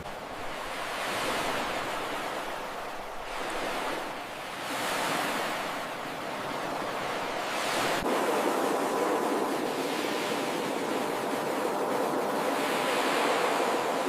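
Ocean surf washing onto a beach, swelling and ebbing every few seconds as waves break. About halfway through the wash turns denser and steadier.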